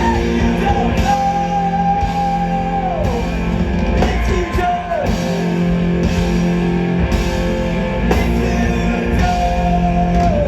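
Live rock band playing a loud passage with no lyrics: distorted electric guitars, bass and drums, with long held notes that slide down in pitch, and cymbals struck about once a second.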